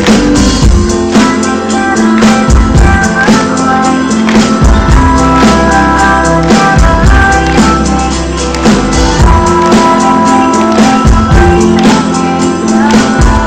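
Live band music played loud, with sustained chords under a steady drum beat and quick, regular percussion hits.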